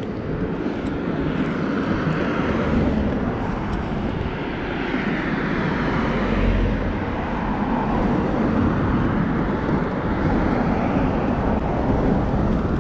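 Continuous rumble of vehicle noise, swelling and easing slowly, with its loudest point about halfway through.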